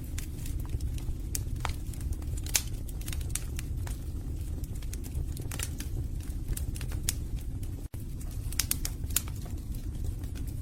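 Wood fire in a fireplace crackling, with irregular sharp pops over a low steady rumble of the burning logs.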